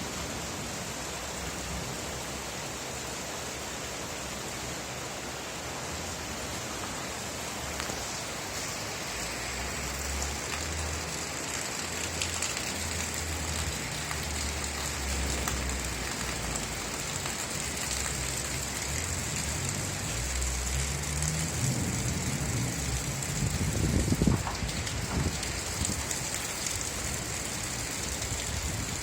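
Steady rain falling, an even hiss. A low rumble builds underneath it and is loudest about three quarters of the way through.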